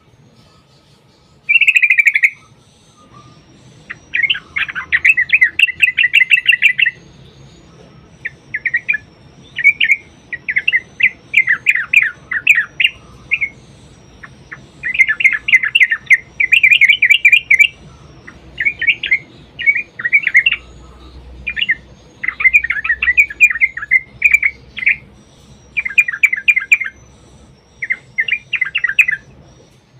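Yellow-vented bulbul (trucukan) singing: loud bursts of rapid, bubbling chatter, each lasting one to three seconds and repeated with short pauses, in the long rolling phrases known as 'ropel panjang'.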